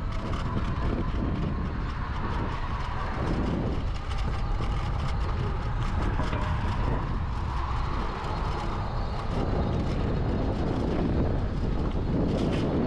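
Steady rumble of wind over the microphone and tyre noise from an electric bike riding along a road, with small rattles from the bumps.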